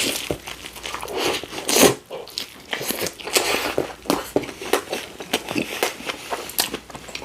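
Biting into and chewing a Subway sweet onion teriyaki chicken sandwich close to the microphone: irregular crunchy, wet mouth sounds, with a loud bite at the start and another just before two seconds in.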